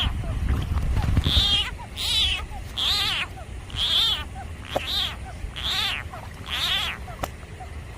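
Frog screaming in distress, as a frog does when seized by a snake: a string of short, high, cat-like wails, a little under one a second.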